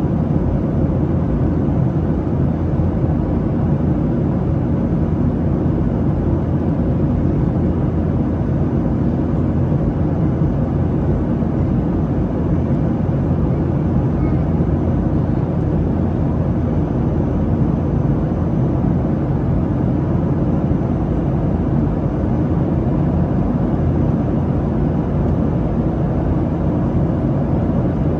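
Steady airliner cabin noise inside a Boeing 737-700 in flight: a constant low rumble of the engines and airflow, with no change in level.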